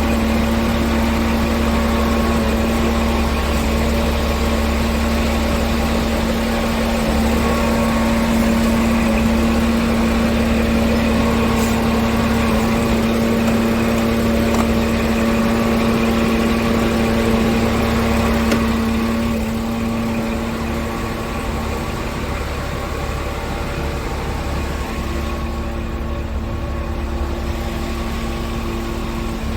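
Scania R tractor unit's diesel engine idling steadily, a constant low hum that gets a little quieter about two-thirds of the way through.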